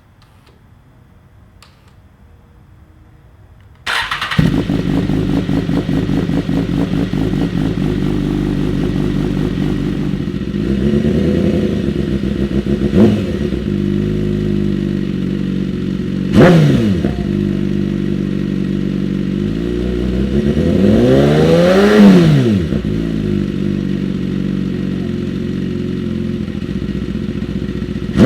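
2010 BMW S1000RR's inline-four engine breathing through an Akrapovic full titanium exhaust, starting up about four seconds in and then idling. It is blipped three times: two quick sharp revs, then a slower, longer rev that rises and falls before it settles back to idle.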